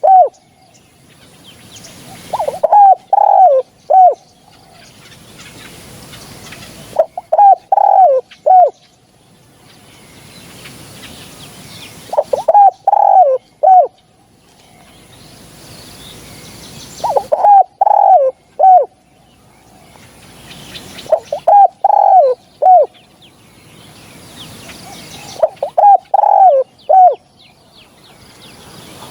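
Spotted dove cooing: a phrase of three or four quick, falling coos, repeated six times about every four to five seconds, with faint chirping of small birds behind.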